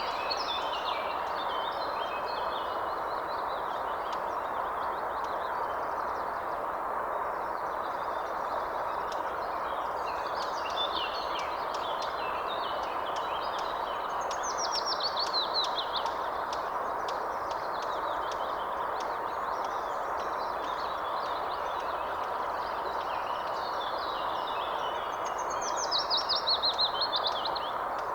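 Several birds chirping and singing over a steady, even background hiss. About halfway through and again near the end, a louder song of rapid notes that fall in pitch stands out.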